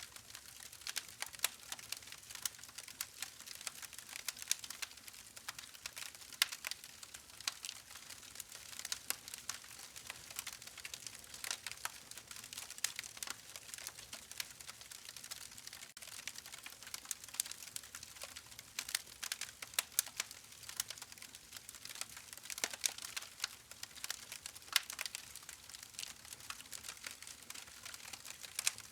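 Wood fire crackling: a steady stream of small, irregular pops and snaps over a soft hiss.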